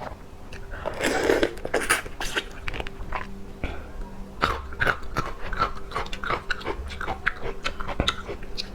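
Close-miked wet chewing and biting of raw seafood, with many small clicks and smacks, loudest between about one and two and a half seconds in.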